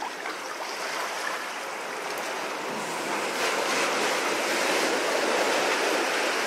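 Ocean surf washing through a sea cave, a steady rush of water that swells louder about halfway through.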